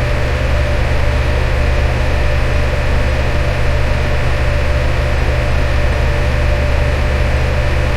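Electric fan running steadily: an even airy whoosh over a deep hum, with a thin steady tone through the middle.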